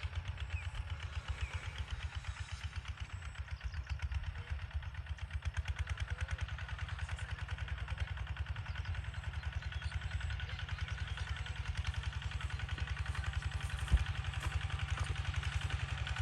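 Kubota ZT140 single-cylinder diesel engine of a walking tractor running steadily with a rapid, even putting beat. A single sharp knock sounds near the end.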